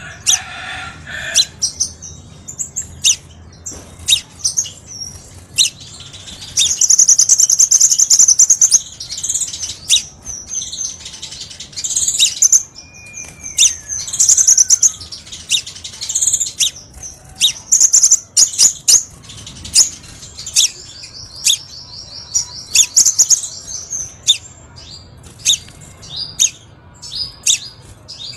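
Crimson sunbird calling: rapid, sharp, high-pitched chirps with fast rattling trills, about seven seconds in and again near twenty-two seconds, over a faint low hum.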